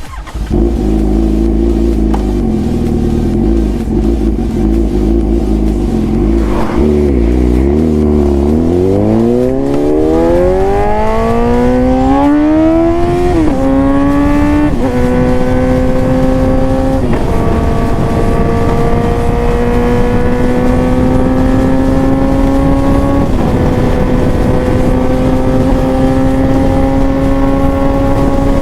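Suzuki GSX-S750 inline-four running through a full aftermarket exhaust (Ezaki header, SC Project tip). For the first several seconds it holds steady at low revs. It then accelerates through the gears, rising in pitch with a drop at each of four upshifts, and settles into a near-steady cruise with the pitch creeping slowly up.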